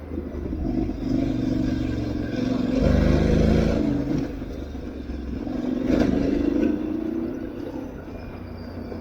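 Aprilia Tuareg 660's parallel-twin engine revving up and easing off while ridden, loudest about three and six seconds in, with a sharp knock about six seconds in.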